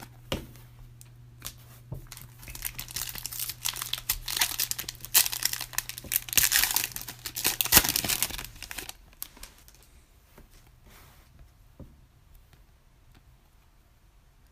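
Wrapper of a trading card pack being torn open and crinkled for several seconds, then only a few faint clicks of cards being handled.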